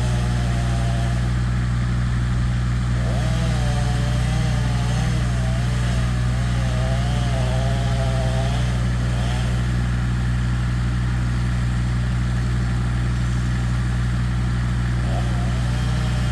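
Engine of tree-cutting machinery running steadily with a low drone, and a higher wavering whine coming and going over it.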